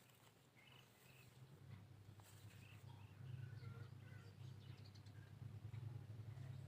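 Very faint, scattered chirps of small birds over a low steady hum, close to silence.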